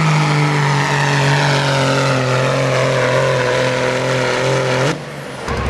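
Diesel pickup truck engine held at high revs under full load while pulling the sled, its pitch sagging slightly as the load builds. It cuts off abruptly near the end, and a different low rumble follows.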